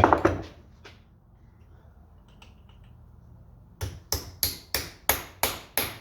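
A loud clunk at the start, then about eight quick, even hammer taps on a driver bit to seat it in a frozen screw head so it won't strip.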